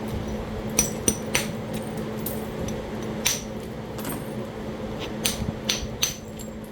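Percussion strikes knapping flakes from a Talahata quartzite biface: about seven sharp clicks of stone being struck, three close together about a second in and the rest spread out, each with a brief ring. A steady low hum runs underneath.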